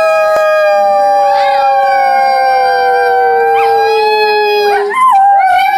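Two dogs howling together in long, overlapping held notes. One howl slowly sinks in pitch and stops near the end; the other keeps going, wavering briefly.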